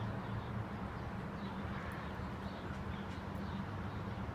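Steady wind noise on the phone's microphone as a thunderstorm's winds pick up, with a low hum underneath and a few faint high chirps.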